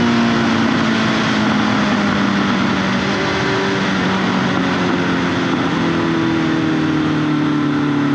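Honda CBR 650F's inline-four engine, breathing through an SC-Project exhaust, running under way. Its pitch drifts slowly down, stepping up twice, over a steady rush of wind.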